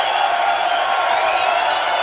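A crowd cheering and shouting, many voices blended into one steady, loud wash.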